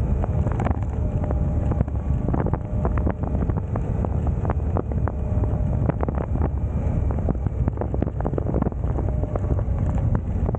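Suzuki V-Strom motorcycle riding in city traffic, its engine running steadily under heavy wind noise buffeting the microphone, with irregular short knocks throughout.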